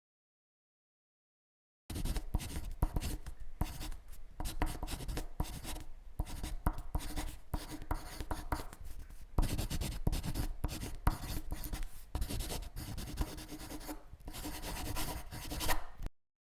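Dense, irregular scratching and rustling, full of small sharp scrapes. It starts abruptly about two seconds in and cuts off just before the end.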